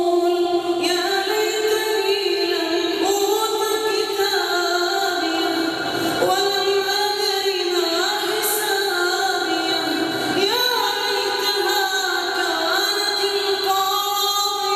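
Melodic Quran recitation: a single voice chanting in long held notes that glide slowly from pitch to pitch.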